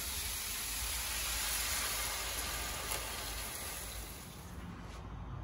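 Chicken broth poured from a glass measuring cup into a hot pan of frying onions, carrots, potatoes and mushrooms, the pan giving a steady sizzling hiss that dies down near the end.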